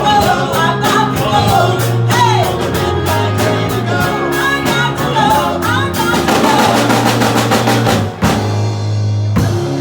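Live band playing: a singer over drum kit, bass and guitar. Past about six seconds the drumming thins out to long held notes, with a brief break just after eight seconds before the full band comes back in.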